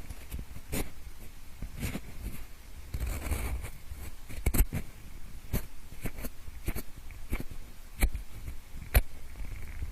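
A pencil scratching and tapping close to the microphone in imitation of ear cleaning: soft scraping and rustling broken by scattered sharp clicks, the loudest about four and a half seconds in and near the end.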